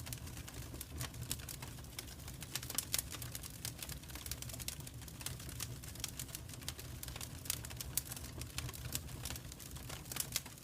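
Wood fire crackling in a fireplace: dense, irregular snaps and pops over a low, steady rumble of the flames.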